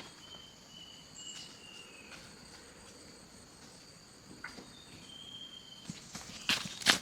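Insects droning steadily in high, even tones, with a few short whistled notes over them. Near the end, a quick run of sharp clicks or knocks comes in; these are the loudest sounds.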